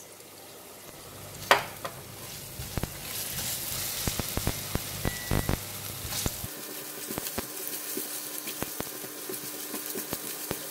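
Ginger paste sizzling in hot oil in a pan just after light soy sauce goes in, while a silicone spatula scrapes and taps as it stirs. There is a sharp click about a second and a half in, and the sizzle grows louder from about three seconds in.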